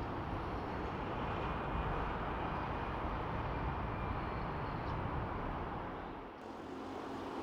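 Steady outdoor background noise, an even rumble and hiss with no distinct events, which changes abruptly about six seconds in as the low rumble drops away.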